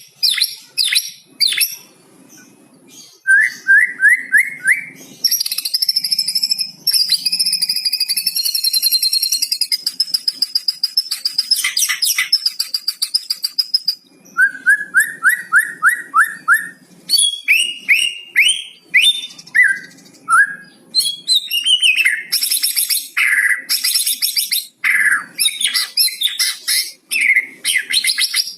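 White-rumped shama (murai batu) singing a varied song laced with mimicked cucak cungkok phrases. It runs through quick series of rising chirps, a long buzzy twittering passage and sharp whistled notes.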